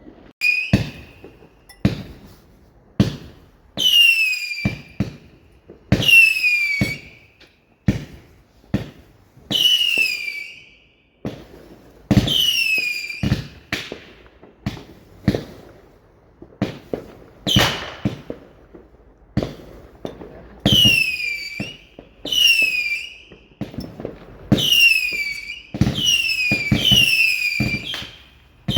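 Fireworks going off without a break: many sharp bangs, some close together, among about a dozen shrill whistles from whistling fireworks, each sliding down in pitch over about a second.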